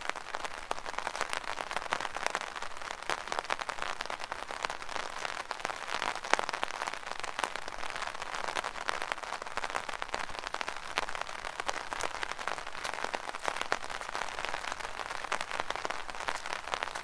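Steady rain pattering on an umbrella canopy: a dense crackle of many drop impacts, unbroken throughout.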